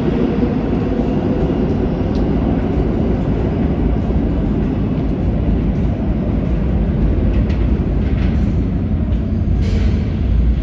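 New York subway L train running through the station with a steady, loud rumble of wheels and motors. A few short sharp clicks come in the second half.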